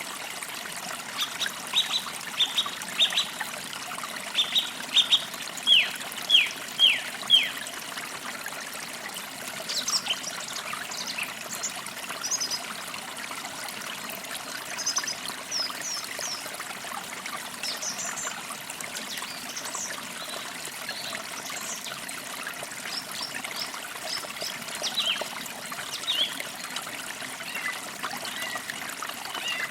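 Forest creek trickling steadily, with songbirds chirping over it: a quick series of loud, falling chirps in the first several seconds, then scattered higher chirps for the rest.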